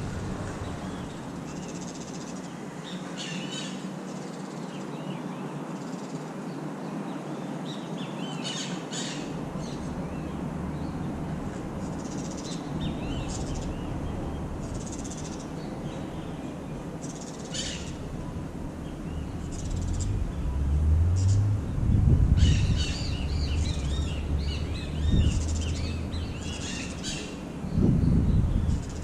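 Wild birds calling outdoors: scattered short chirps and calls, more frequent in the second half, over a steady faint hiss. Low rumbles break in about two-thirds of the way through and again near the end.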